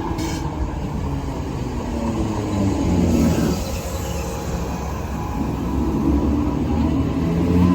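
Irish Rail DART electric multiple unit running past, with a steady low hum from its motors over the rumble of its wheels on the track.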